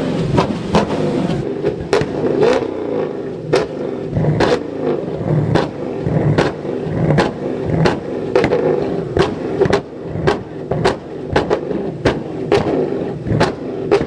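A car's engine held at high revs through a burnout, with sharp exhaust pops and bangs going off irregularly about twice a second.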